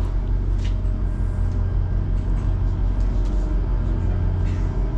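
A large engine running steadily at idle: a constant low drone with an even hum and a few faint ticks over it.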